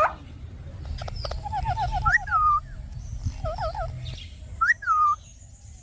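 Pet parrot calling: a quick run of short chirps about one and a half seconds in, followed by several separate rising-and-falling squawks.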